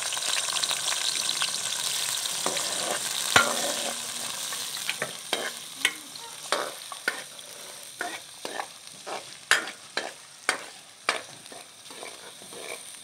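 Chopped onions sizzling in hot ghee in a steel karahi, the sizzle fading over the first few seconds. A steel ladle stirs them, with one sharp knock against the pan about three seconds in, then scraping and clinking against the metal about twice a second.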